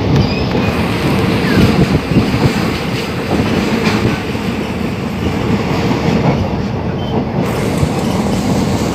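Passenger train coach running along the track, heard through an open window: a steady, loud rumble of wheels on the rails with a few sharp clacks.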